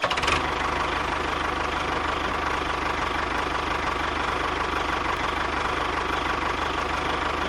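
A small engine running steadily with a fast, even pulsing and a steady whine.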